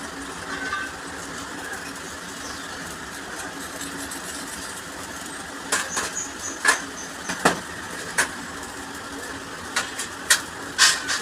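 Sharp metallic clinks and knocks of tools and metal parts being handled, about ten in the second half, some with a brief high ring, over a steady background hum.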